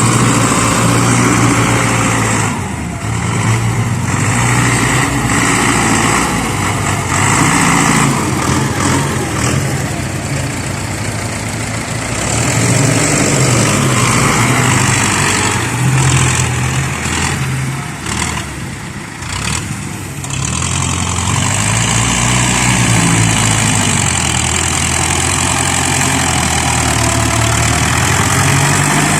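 Diesel engine of a Ford 6610 farm tractor running under varying load while it works, its pitch dropping and rising again a few times.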